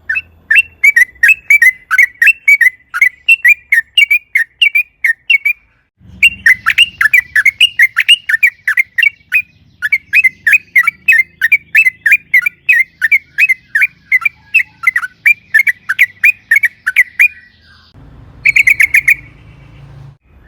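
Yellow-vented bulbul (trucukan) singing long runs of rapid, bubbly notes, about four or five a second, in phrases several seconds long broken by short pauses, with a brief burst near the end.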